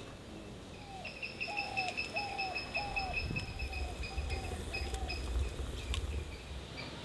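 Countryside ambience: a bird calls a run of about seven short, falling notes, roughly half a second apart, over a steady high-pitched insect whine. A low rumble comes in underneath partway through.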